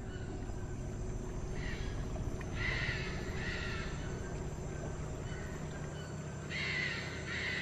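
A bird calling several times over a steady low background hum: a short call about two seconds in, a run of calls around three seconds in, and more near the end.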